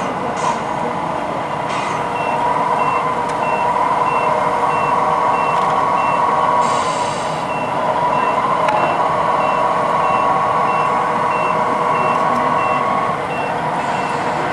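Radio-controlled model truck's reversing beeper, a high beep repeating about three times a second, over the steady whine of the truck's motor or sound module.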